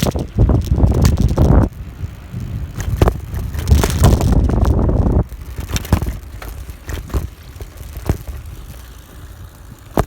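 Bicycle ride on a gravel path: wind buffeting the microphone in two loud rumbling stretches, about the first second and a half and again around four to five seconds in, with sharp knocks and rattles from the bike going over bumps.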